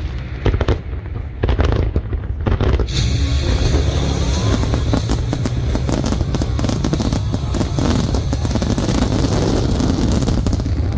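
Aerial fireworks bursting: a few separate bangs in the first couple of seconds, then from about three seconds in a dense, rapid crackle of many small bursts over a continuous low rumble.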